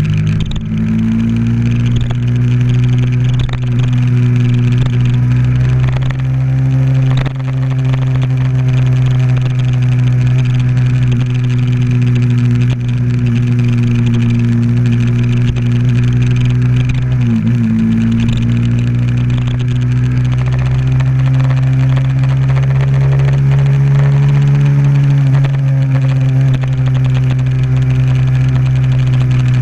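Motorcycle engine running at a steady cruising speed, with a brief dip and recovery in engine pitch a little past halfway.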